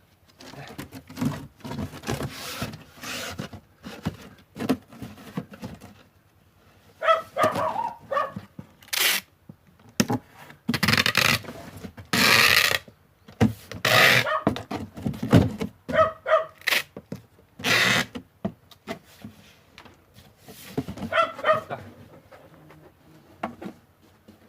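Packing tape being pulled off the roll and pressed onto a cardboard box, with thuds and scrapes from handling the box. A dog barks now and then.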